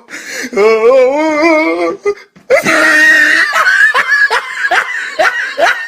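Loud laughter: a wavering, drawn-out laughing voice, then a sudden shrieking outburst that breaks into quick repeated laughs, about three or four a second.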